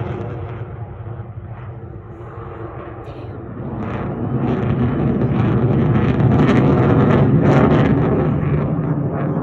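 Fighter jet engines flying past: a deep, loud rush that dips at first, then swells to its loudest about two-thirds of the way through and begins to fade near the end.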